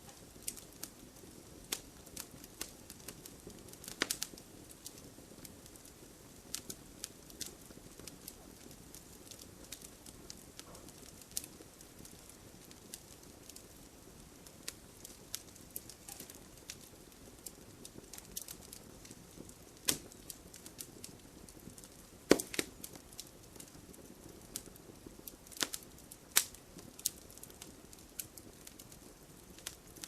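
Fire crackling in a fireplace: irregular pops and snaps over a soft steady hiss, with a handful of sharper, louder pops scattered through, the loudest about two-thirds of the way in.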